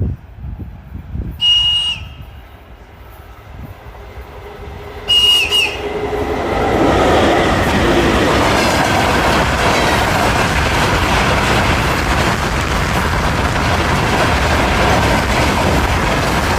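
Two short, high whistle blasts from a VL80t electric locomotive's kettle-like whistle, each about half a second long and dipping in pitch at the end, a few seconds apart. Then the locomotive and its train pass close by with a loud, steady rush of rolling noise.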